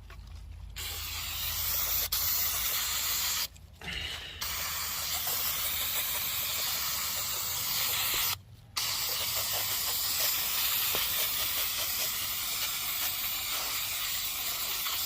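Aerosol can of paint remover spraying in three long, steady hissing bursts, with two short pauses between them, as it soaks painted door seal plates to strip them.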